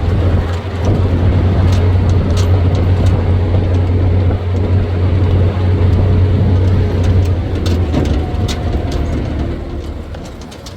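A motor vehicle's engine running with a steady low drone, which fades away over the last few seconds as the vehicle moves off or throttles down, with a few light clicks and rattles.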